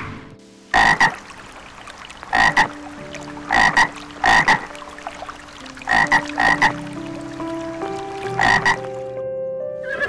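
An animal's short calls, about ten in all, some single and some in quick twos and threes, over faint steady tones.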